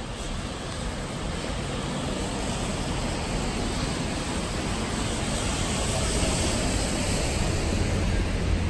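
Steady hiss of rain on a wet cobbled street, with a low rumble underneath, growing slightly louder toward the end.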